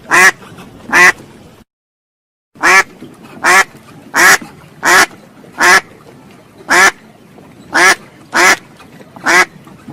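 Duck quacking: a string of short, loud quacks, roughly one every three-quarters of a second, broken by about a second of dead silence near two seconds in.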